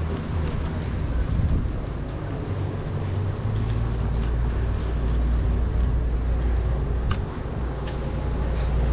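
Motorboat engine running with a steady low drone, which grows stronger and steadier about three and a half seconds in, over wind and water noise.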